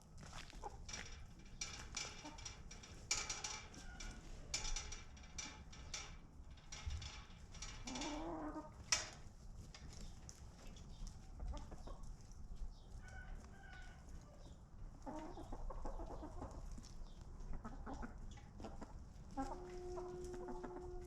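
Domestic chickens clucking and calling, with a held, steady-pitched call near the end. Many short scratchy clicks and rustles through the first few seconds.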